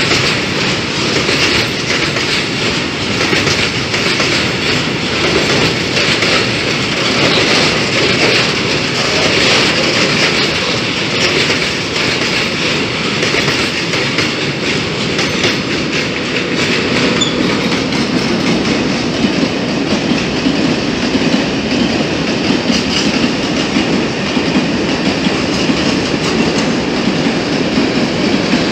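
Freight train of open coal wagons rolling past, its wheels clacking in quick rhythm over the rail joints. About two-thirds of the way in, this gives way to the steadier, lower rolling rumble of a train of Talbot hopper wagons passing.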